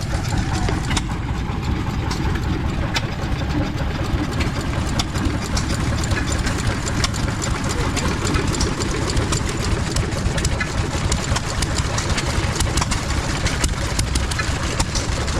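An engine idling steadily, a low even rumble, with scattered light clicks over it.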